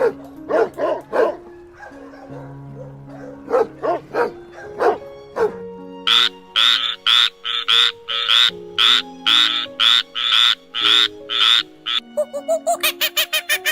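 A series of animal calls over soft background music. First come short pitched yelps, then from about six seconds a run of loud harsh calls about two a second, and near the end a quick rapid chirping.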